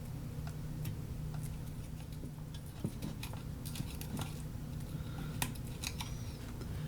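Scattered faint clicks and light taps of small parts and tools being handled on a workbench, over a steady low hum.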